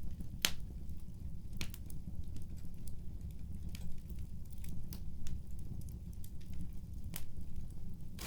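Wood fire burning with a steady low rumble and scattered sharp crackling pops, the loudest about half a second in and another near the end.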